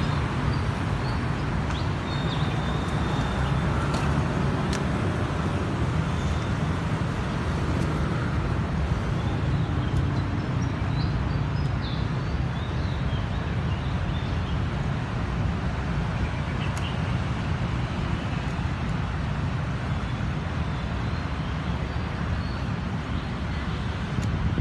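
Steady outdoor background rumble and hiss at an even level, heaviest in the low end, with a few faint short high chirps and clicks on top.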